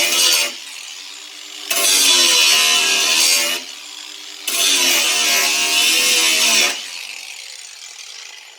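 Hand-held power grinder grinding sheet metal off the car body in three loud spells, with the motor running free and quieter between them. It is then let go and the motor winds down, fading out near the end. The work is grinding off old wiring-harness clamps.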